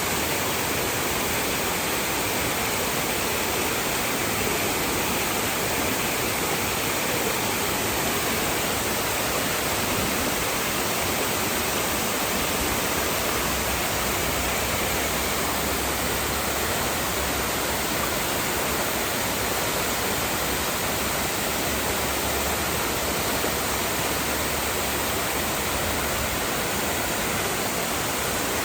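Waterfall: water pouring down in a steady, even rush.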